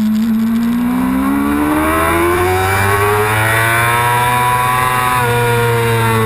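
Yamaha R6 inline-four race engine heard onboard, running hard. Its note dips briefly, then climbs steadily for about four seconds as the bike accelerates, shifts in tone about five seconds in, and falls as the rider eases off near the end.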